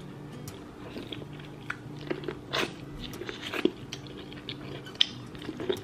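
Close-up chewing and eating sounds from someone eating seafood boil: scattered wet clicks and small crunches, over a faint steady hum.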